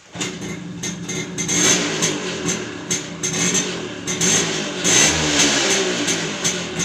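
TVS XL Super moped engine starting and running, its speed rising and falling, with rapid clicking and rattling over the engine note. It is being run to check the clutch after a new clutch bell and shoes were fitted for a clutch noise problem.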